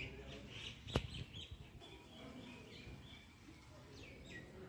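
Birds chirping in short, high calls, with a couple of quick falling notes about four seconds in. A single sharp click about a second in.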